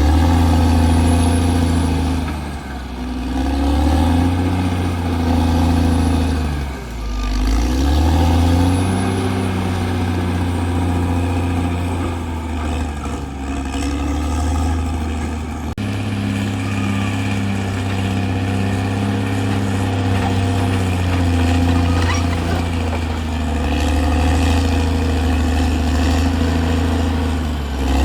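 Caterpillar D6R bulldozer's diesel engine running under varying load, its pitch sagging and recovering several times in the first half. It changes abruptly about halfway through and then runs steadier.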